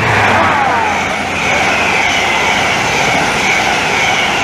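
An InterCity 125 High Speed Train with Class 43 diesel power cars running through the station. It makes a loud, steady rush of wheels and engines with high whining tones, and a falling whine in the first second.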